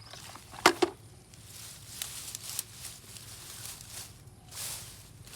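Two sharp clicks about two-thirds of a second in, then a run of rustling with light ticks, like hands moving through deep grass.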